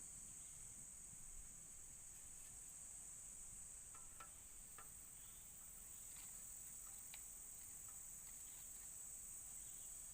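Insects droning steadily at a high pitch, with a few faint clicks near the middle.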